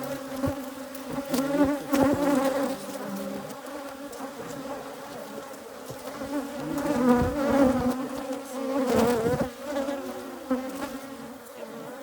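Many honeybees from an Africanized hybrid colony buzzing around an opened hive, a steady, wavering hum close to the microphone. A few short knocks and bumps sound over it.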